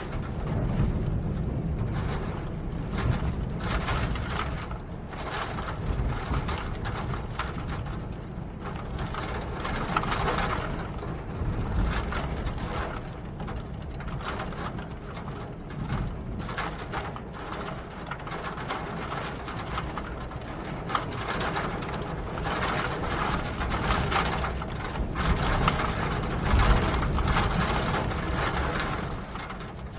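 Rain pattering as a dense stream of irregular ticks and clicks over a low rumble, swelling and easing.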